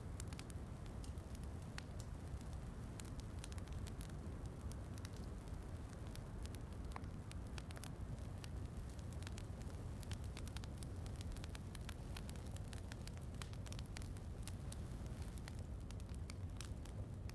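Wood fire crackling with many small, irregular pops over a steady low rumble, blended with steady rain.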